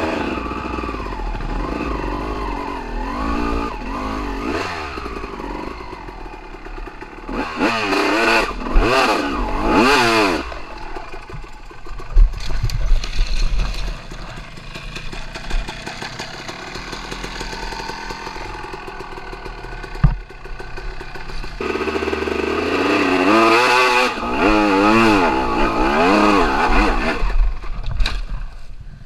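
Dirt bike engines running and revving, the pitch sweeping up and down in bursts about a third of the way in and again near the end. A couple of sharp knocks come in between.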